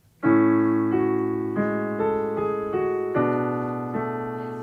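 Piano music: a chord struck about a quarter second in, followed by single notes and chords every half second or so, each ringing out and slowly dying away.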